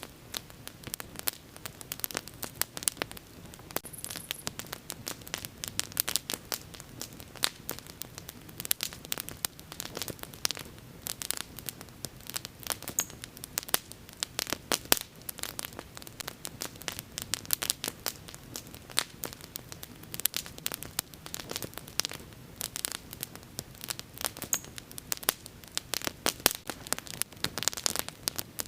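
Wood fire burning with dense, irregular crackling and popping over a soft low rumble of flame.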